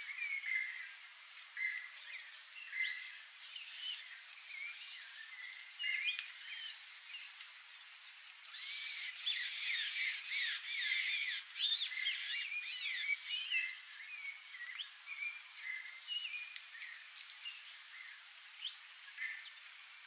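Several small songbirds chirping and calling in short, high notes, thickening into a busy burst of overlapping calls about halfway through for four seconds or so.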